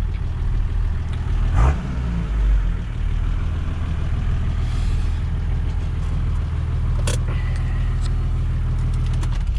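Nissan TD42T 4.2-litre turbo-diesel inline-six, its bottom end freshly rebuilt, running at a steady idle. There is a brief rise in pitch about one and a half seconds in, and a couple of sharp clicks later on.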